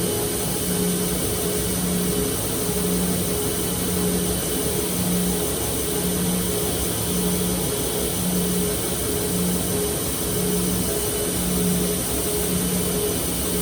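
Electric grinder running steadily during knife thinning or regrinding, with a low hum that swells about once a second.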